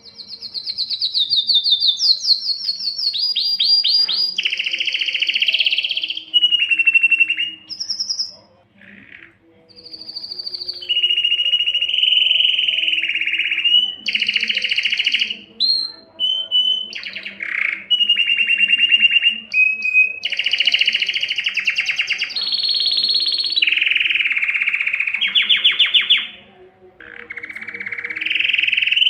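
Spanish Timbrado canary singing a long song of rapid trills and rolled phrases, with short breaks about a third of the way in and near the end.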